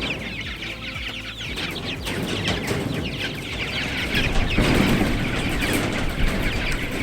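A flock of young meat chicks peeping continuously in many short, quick, falling cheeps. A louder burst of low rustling noise comes about four and a half seconds in.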